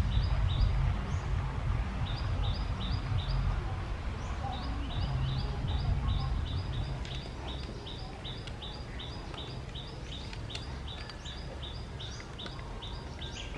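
A bird calling, a long run of short high chirps repeated evenly about three times a second. Under it runs a steady low rumble.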